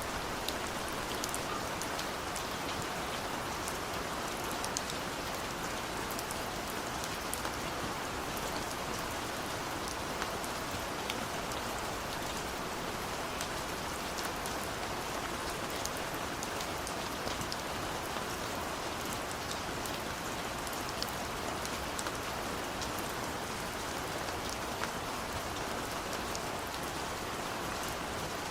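Steady rain falling, a constant hiss with many small drop taps scattered through it.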